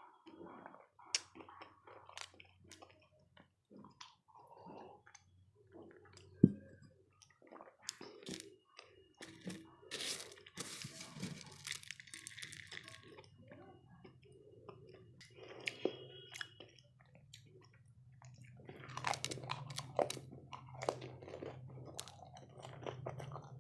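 Close-miked chewing and crunching of dahi golgappe, the crisp puri shells cracking between the teeth in many short, irregular crunches. A single sharp knock about six and a half seconds in is the loudest sound.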